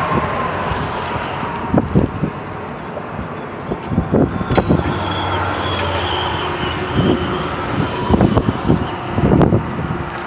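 Steady road traffic noise, with irregular low thumps through it.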